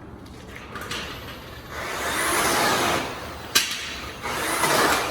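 Variable-speed rotary buffer with a soft finishing pad polishing an aluminum truck wheel, its sound swelling and fading in repeated passes about every two seconds as the pad presses on the metal. A sharp click about three and a half seconds in.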